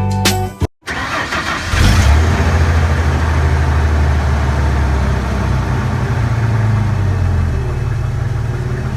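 A Ford F-150 OBS pickup's engine, still on its stock muffler, comes in about a second in, picks up about two seconds in, then runs with a steady low drone. Background music is heard briefly at the very start.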